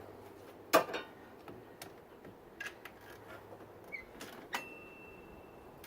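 Scattered metal clicks and knocks from hand tools on the tensioner bolt of the 2.3 L Lima engine as it is tightened. The sharpest knock comes about a second in, and a thin steady high tone rings near the end.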